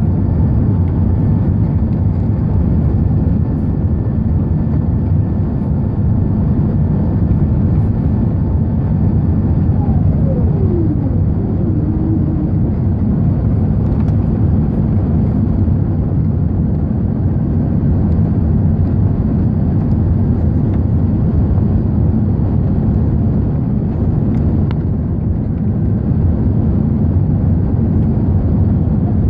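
Airbus A380 airliner's engines during take-off, a steady, loud, low rumble, with a faint whine that falls in pitch about a third of the way in.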